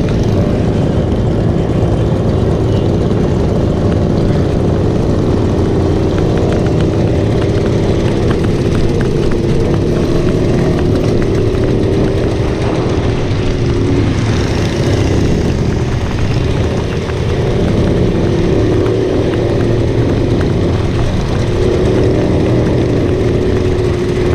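Small classic motorcycle engine running steadily at riding speed, its pitch wavering a little, over a continuous rush of wind and road noise.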